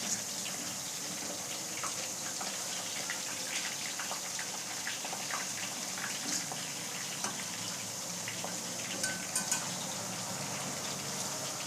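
Small pieces of cornflour-and-flour-coated chicken deep-frying in hot oil in a kadai: a steady sizzle with scattered crackles and pops.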